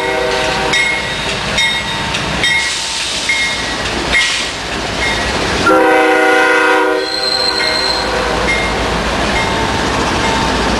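Freight train passing at a grade crossing: the rumble and wheel clatter of CSX diesel locomotives and autorack cars, with a crossing bell dinging about once a second. A multi-tone train horn sounds one blast of over a second, about six seconds in.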